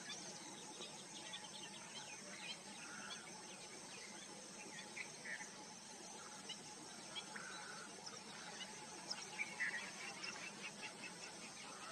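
Wild birds chirping and calling in short scattered notes over a steady faint outdoor hiss, with a quicker run of chirps and trills about nine seconds in.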